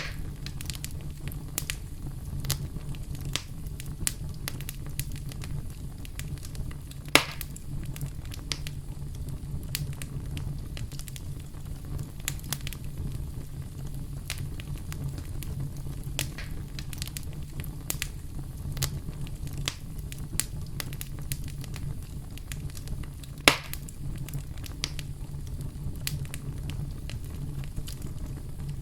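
Wood campfire crackling: many small pops and snaps over a steady low rumble. Two louder pops come about a quarter of the way in and again about four-fifths through.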